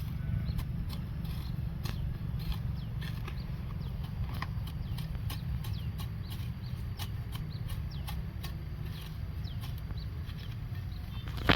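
Irregular sharp clicks over a steady low rumble, with a few faint short chirps.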